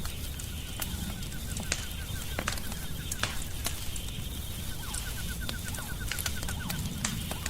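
Wood fire crackling in a fireplace: a steady low rumble with frequent sharp pops. Twice in the middle, a rapid chattering run of short, evenly spaced notes is mixed in.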